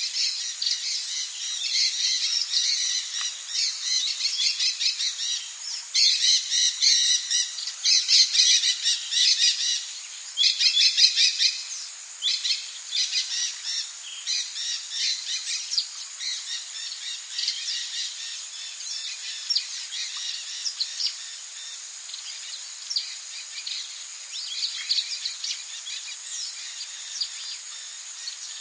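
Rainforest birds calling in fast trains of short chirps, densest and loudest from about six to twelve seconds in and thinning out after, over a steady high hiss.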